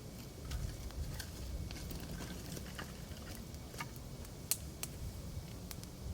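Campfire crackling: burning firewood popping and snapping in irregular sharp cracks, the loudest about four and a half seconds in, over a low rumble.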